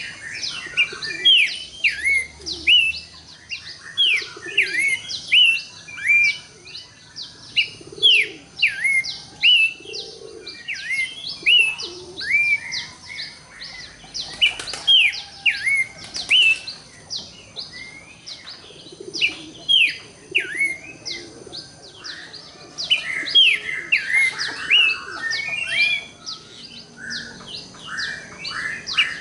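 Pelanduk semak (Horsfield's babbler) singing: a fast, unbroken string of short clear whistles, each sliding down in pitch, repeated again and again.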